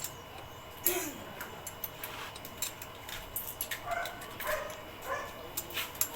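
A dog yapping and yelping several times in short calls. Sharp metallic clicks and clinks run alongside.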